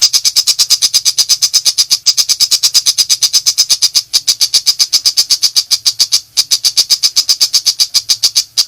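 Long-tailed shrike (pentet) giving its rapid 'nembak' call: a fast, even rattle of short, high, harsh notes, about nine a second, with two brief breaks partway through, stopping abruptly near the end.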